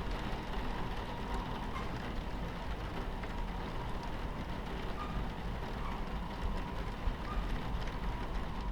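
Steady low rumble of a train running on its tracks, with rain pattering against the carriage window.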